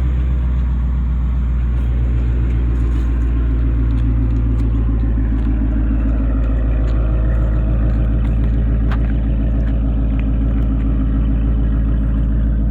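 2018 Mustang GT's 5.0-litre V8 idling steadily through an X-pipe and Roush muffler catback exhaust, a deep, even rumble with no revving.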